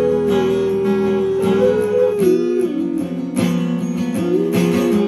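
Instrumental rock music led by guitars, with held notes that bend in pitch over strummed chords and no singing.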